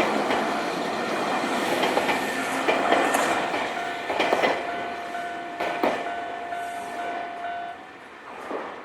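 A Nankai Kada Line train passing over a level crossing, its wheels clacking over the rail joints, while the crossing's warning bell rings over and over. The train and the bell die away near the end.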